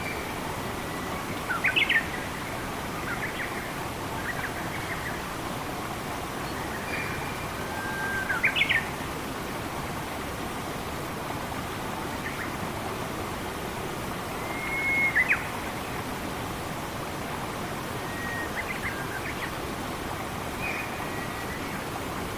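Forest birds calling in short whistled notes over a steady hiss of running water. The loudest calls come about two seconds in, about eight and a half seconds in and about fifteen seconds in, with fainter chirps between.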